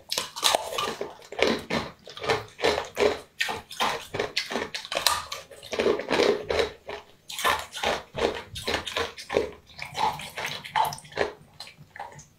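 Close-up eating sounds: quick, wet bites and chews into a large translucent blue fish-shaped treat, about three sharp crunchy-squelchy strokes a second.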